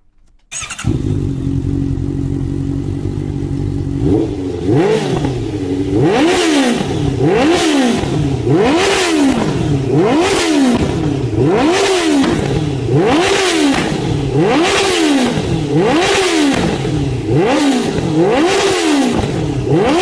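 Honda CBR650F inline-four through an aftermarket exhaust, idling steadily and then blipped over and over from about four seconds in, the revs climbing and dropping back roughly once a second.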